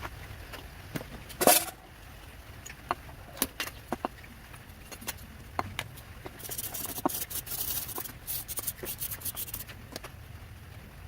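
Hand work on old metal fan parts: scattered clicks and clinks, one loud clank about a second and a half in, then a few seconds of hissy scraping.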